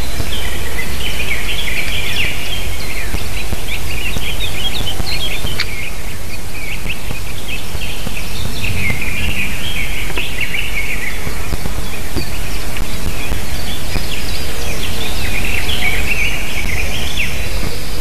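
Birds chirping in busy clusters of rapid, high, short notes, over a loud steady hiss and low rumble.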